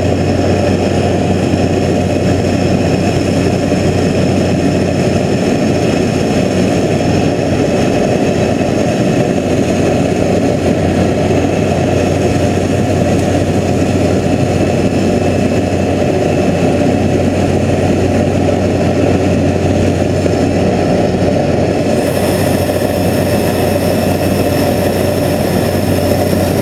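Floatplane's engine and propeller running steadily at high power during takeoff, with a strong low drone. A brighter hiss joins abruptly a few seconds before the end.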